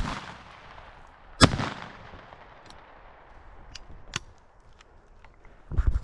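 Two shotgun shots about a second and a half apart, the first right at the start, each with a short ringing tail, fired at flushing bobwhite quail. Rustling steps through grass near the end.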